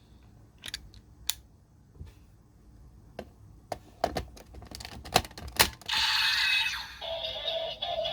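Scattered plastic clicks and snaps from handling a Kamen Rider Saber Seiken Swordriver toy and its Wonder Ride Book, then about six seconds in the toy's speaker starts a loud electronic sound effect that settles into steady electronic standby music.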